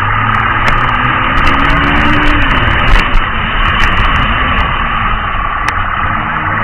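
A motor vehicle's engine running steadily, with loud continuous engine and road noise.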